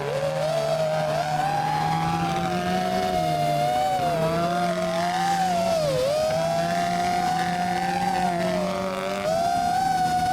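Rally car engine running hard at high revs, its pitch wavering up and down as the car is driven, with a short dip in revs about six seconds in.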